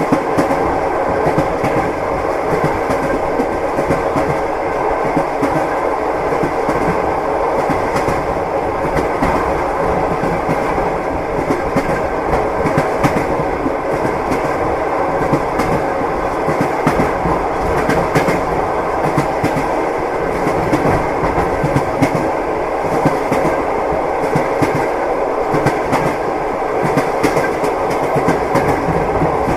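Train wheels clattering over rail joints, sharp clicks over the steady rumble of the moving carriage.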